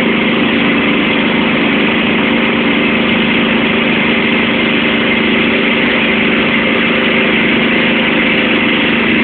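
John Deere 325 lawn tractor engine running steadily at an even speed while the tractor drives slowly.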